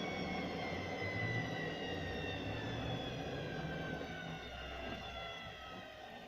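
Zanussi ZWH7148P washing machine slowing down: the motor's whine falls steadily in pitch while the low running rumble fades, with the drum's rumble dropping away about four seconds in.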